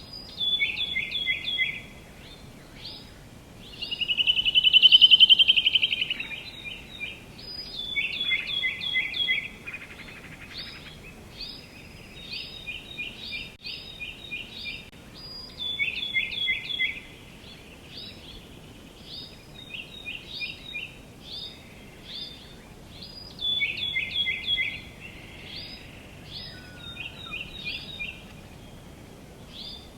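Songbirds singing, with repeated short phrases of quick descending notes throughout and a louder trill about four seconds in, over a faint steady outdoor background hiss.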